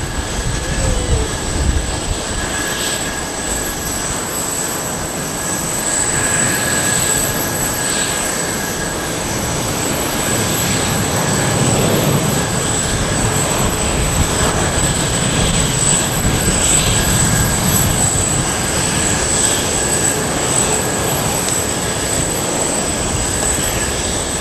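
Boeing 787-9 jet engines at takeoff power, heard across the airfield: a steady rushing roar with a thin high whine. The low rumble swells from about halfway through.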